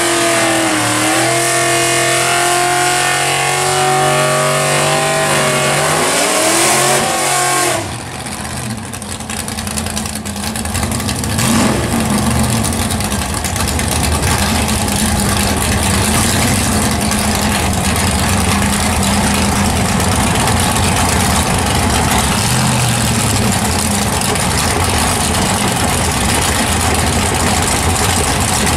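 Drag-race V8 engines: first one engine held at a steady raised speed with a couple of short pitch changes, then, after a sudden drop about eight seconds in, cars idling roughly and steadily at the starting line.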